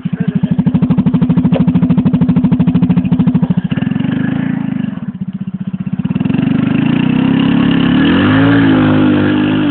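Motorcycle engine running hard at high revs, its firing pulses clearly audible. The sound eases off about four to five seconds in, then builds again with the pitch climbing before it falls away suddenly at the end.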